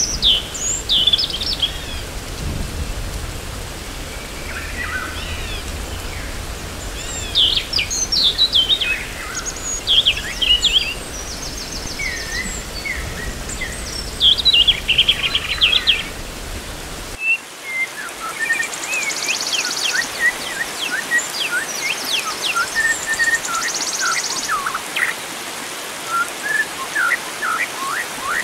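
Wild birds chirping and whistling in quick, overlapping phrases over a steady rush of flowing water. About 17 seconds in, the low rumble underneath cuts off abruptly, as at a splice between recordings, while the birdsong goes on.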